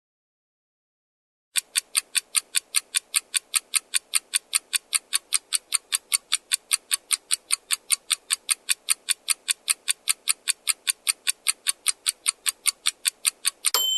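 Quiz countdown timer sound effect: after about a second and a half of silence, even clock-like ticks at about four a second, ending near the end in a short bright ding.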